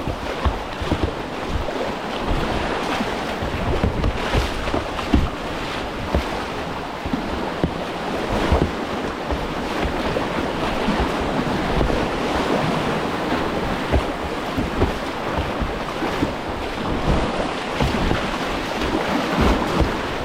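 Rushing whitewater of a class 2 rapid, heard from a kayak running it, with wind buffeting the microphone in irregular low thumps.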